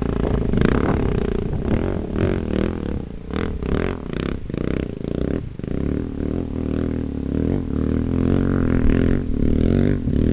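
Dirt bike engine running at low revs and revving up and down, with a string of clattering knocks in the middle.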